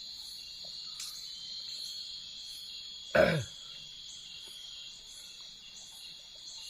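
Steady chorus of forest insects, a continuous high shrill with a fainter higher pulsing about twice a second. About three seconds in, a short, loud vocal sound from a man, falling in pitch.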